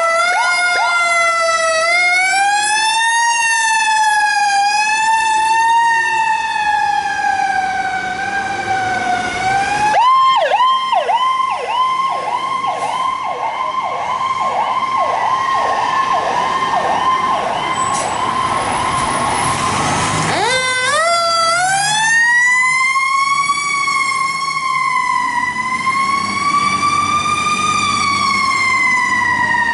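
Fire apparatus siren sounding on an emergency response. It runs a slow rising-and-falling wail, switches about ten seconds in to a fast yelp of roughly two sweeps a second, and about twenty seconds in winds back up from low into the wail.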